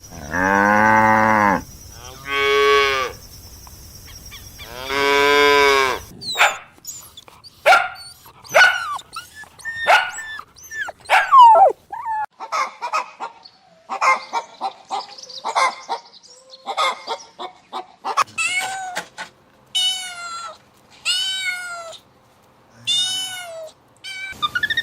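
A cow mooing in three long calls, followed by a run of shorter animal calls: many quick, sharp cries, then several short calls that rise and fall in pitch.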